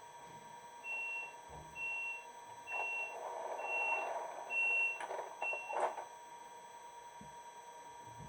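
Sound decoder of a Brawa H0 ET 425 model train playing six short, evenly spaced high beeps, a little more than one a second, the ET 425's door-closing warning tone. A hiss runs under the later beeps and ends in a short burst.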